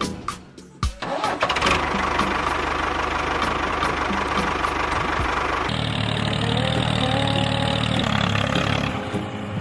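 A small motor starting up and then running steadily, with background music taking over about halfway through.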